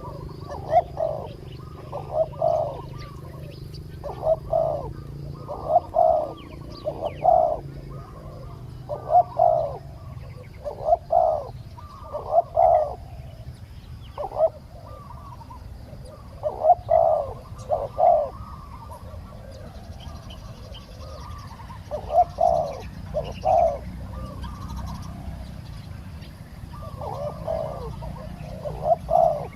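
Spotted doves cooing: short two- and three-note coo phrases repeated every second or two, over a steady low background hum.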